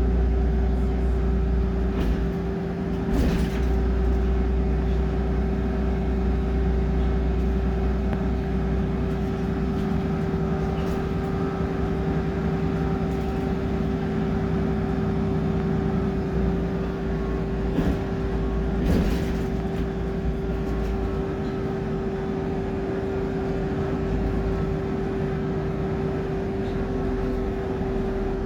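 BMC Procity city bus's Cummins diesel engine running, heard from inside the bus as a steady low drone with a constant whine on top. A few short knocks or rattles come about two and three seconds in, and again about two-thirds of the way through.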